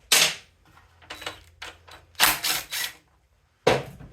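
Spark plug being taken out with a socket wrench: a series of short clicking and scraping sounds of metal tool work, three in quick succession past the middle and one more near the end.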